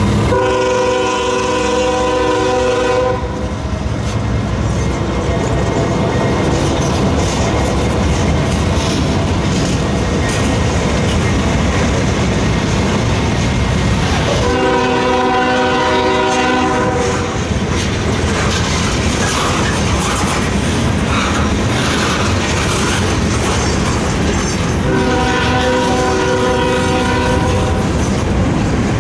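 CSX freight train rolling past, its covered hopper cars making a steady rumble on the rails. A locomotive horn sounds three long blasts, each about three seconds: near the start, about halfway through and near the end.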